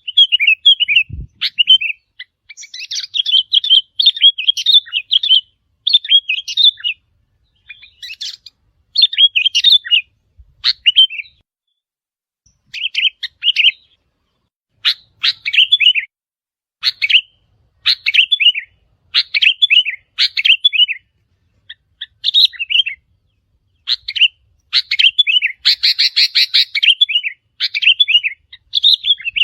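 Sooty-headed bulbul song: loud, short, bubbly whistled phrases, one about every second, with a few brief pauses between runs.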